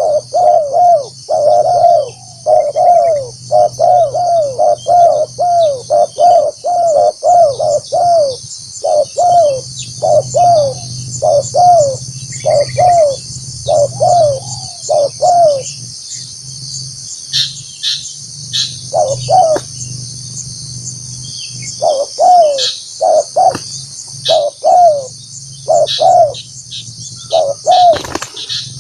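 Spotted dove cooing: a long run of short, quick coos, two or three a second, with a pause of a few seconds past the middle. It is a trained decoy dove calling to draw in wild spotted doves.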